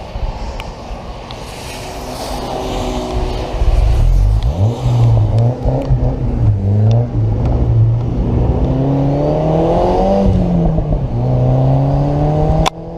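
Turbocharged Mazda Miata (NC) four-cylinder engine, quieter at low revs for the first few seconds and then accelerating hard. The pitch climbs repeatedly, drops at a gear change about ten seconds in, and climbs again. There is a sharp click near the end.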